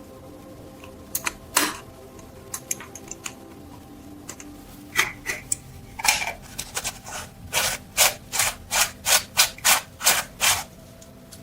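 Hand abrasive rubbing strokes on a rusty metal part. First a few scattered scrapes and clicks, then from about halfway a steady run of about three strokes a second that stops near the end.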